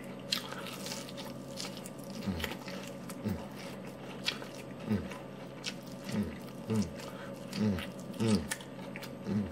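A person eating a crispy fried chicken wing close to the microphone: biting, crunching and chewing the meat off the bone, with many small clicks and smacks. Short, low, falling-pitch sounds come every second or so and grow more frequent toward the end.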